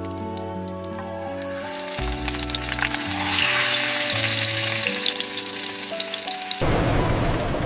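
Food sizzling in a hot pan, a crackling hiss that grows louder about three seconds in, over soft sustained background music. About six and a half seconds in it cuts suddenly to a steady low rumble.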